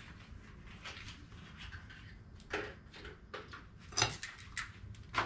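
Light metallic clicks and clinks, about half a dozen spread irregularly, as spark plugs are handled and threaded finger-tight into the engine's cylinder head.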